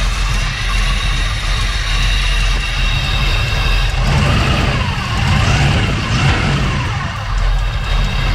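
Chevy Nova's small-block V8, fitted with Holley Sniper fuel injection, idling steadily, revved up and back down a couple of times about halfway through.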